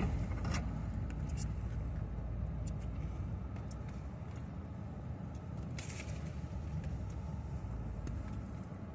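Small off-road vehicle's engine running steadily at low speed, a low hum, with a few faint clicks and rattles.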